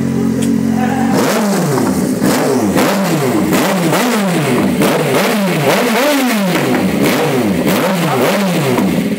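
Yamaha XJ6's 600 cc inline-four through a WR aftermarket exhaust, idling, then blipped in about a dozen quick revs that each rise and fall back, roughly one every 0.6 s, before settling back to idle near the end.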